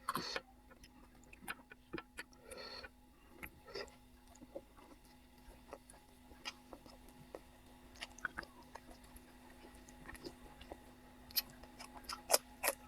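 Close-up eating sounds: quiet chewing with scattered wet mouth clicks and smacks, over a steady low hum.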